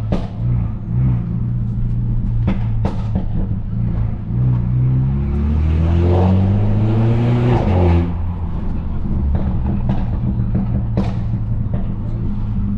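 Turbocharged, straight-piped Mercedes-Benz C250 exhaust accelerating: the engine note climbs steadily for about three seconds from around four seconds in, then drops abruptly near eight seconds and settles into a steady cruise.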